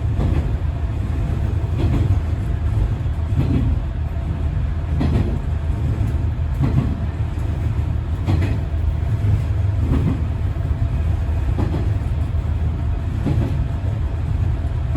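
Diesel railcar running at speed, heard from inside the driver's cab: a steady low engine and running rumble with wheels clacking over rail joints about every second and a half.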